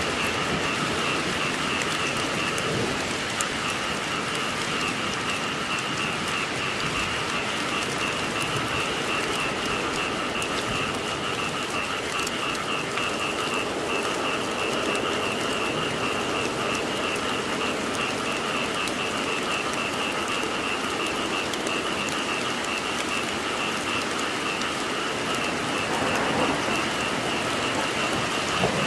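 Steady rain falling, with frogs croaking in a continuous chorus over it as a high, pulsing drone.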